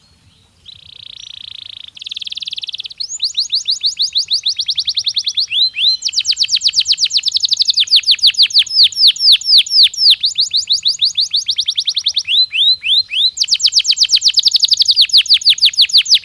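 Domestic canary singing a loud, fast song: a buzzing roll at the start, then long runs of rapid downward-slurred notes, about ten a second. A short break of a few single notes comes about twelve seconds in, before the runs start again.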